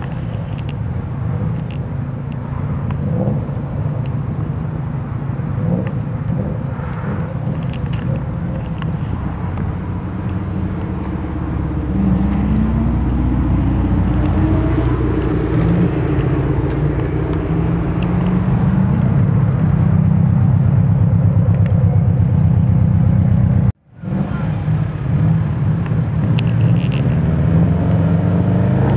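Subaru Impreza WRX STI turbocharged flat-four engines running through their exhausts as the cars pull away at low speed. The note gets louder about halfway through and its pitch rises and falls with the throttle, and the sound cuts out suddenly for an instant near the end.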